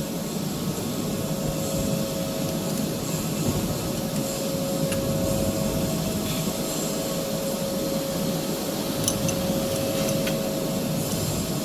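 Running factory machinery: a steady mechanical hum with a constant tone through it and a few faint, light clicks.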